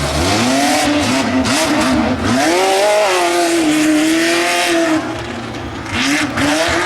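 A Tuff Truck's engine revving hard on a timed run, its pitch climbing and falling again and again as it accelerates and backs off. The loudness dips briefly about five seconds in, then picks up again.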